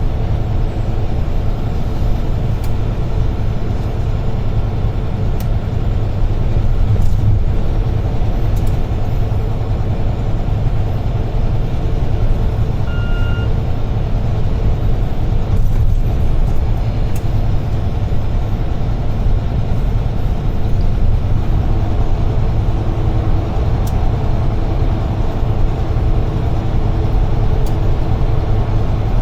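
Steady low rumble of a UD Trucks Quon heavy truck's engine and road noise heard from inside the cab while driving, with an engine hum that grows a little stronger in the second half. About halfway through a single short electronic beep sounds.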